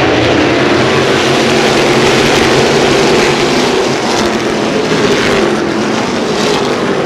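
NASCAR Whelen Modified race cars' V8 engines running loud and steady on the track, a dense wall of engine noise from the field at speed.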